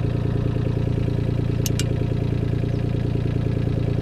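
Kobelco SK13SR mini excavator's Yanmar three-cylinder diesel engine running steadily, with two sharp clicks about a second and a half in.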